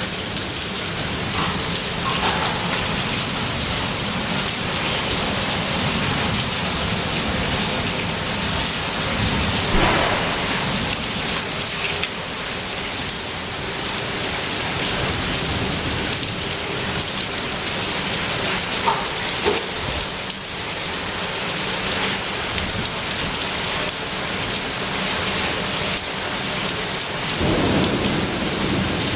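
Hailstorm: hail and rain pelting down on surfaces in a dense, steady din, with a few louder hits standing out now and then.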